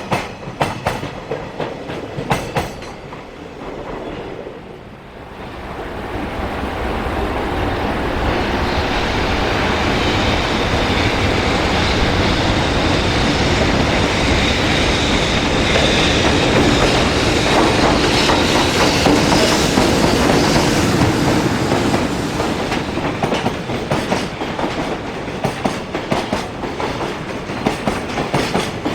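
Container freight trains on the Tohoku Main Line. Wheels clack over the rail joints as the last wagons of one train pass. After a short lull, a second freight train approaches with a rising rush, passes loudly for about a dozen seconds, and its wagons clack over the joints again near the end.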